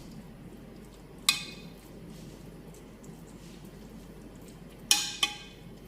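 A metal utensil knocking against a cooking pot with short ringing clinks, once about a second in and twice in quick succession near the end, as cooked rice is spread into the pot. A steady low hum underneath.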